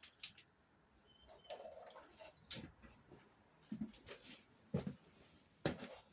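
Scattered metallic clicks and knocks of tools and engine parts being handled during an engine strip-down, irregular, with two louder knocks, one in the middle and one near the end.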